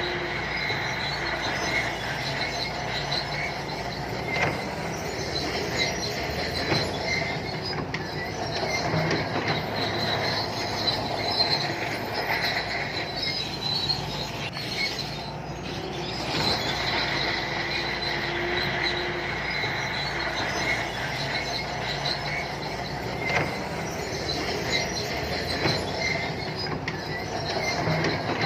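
Santui crawler bulldozer working: its diesel engine runs steadily while the steel tracks squeal and clank, with a high squeal that eases off briefly about halfway through.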